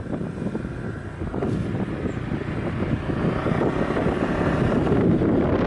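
Wind buffeting the microphone over a motorbike running along, a steady low rumble.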